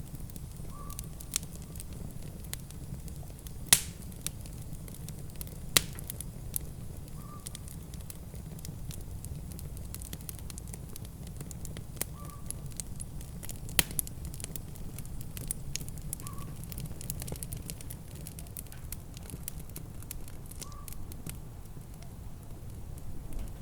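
Wood fire crackling, with irregular sharp pops (the loudest about 4, 6 and 14 seconds in) over a steady low rumble.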